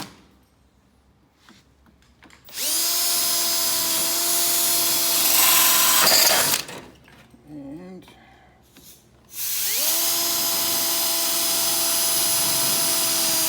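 Electric hand drill boring rivet holes through steel angle iron. It makes two steady whining runs of about four seconds each, and the first gets louder and rougher just before it stops.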